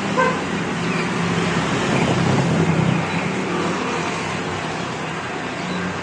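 Steady road traffic noise from passing vehicles, a continuous rush with a low engine hum.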